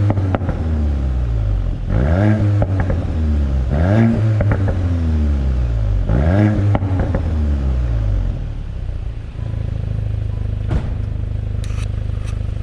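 2021 VW Golf 8 GTI's turbocharged 2.0-litre four-cylinder engine blipped repeatedly: quick rises and falls in revs roughly every two seconds. About eight seconds in it settles to a steady idle.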